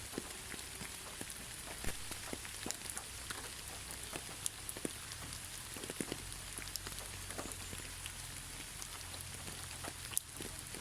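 Gentle rain falling steadily, with many individual drops ticking close by over the even hiss.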